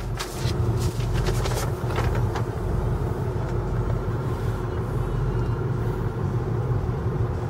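The 2008 Ford F-250's 6.4L Power Stroke V8 turbo-diesel idling steadily, with a few light clicks in the first couple of seconds.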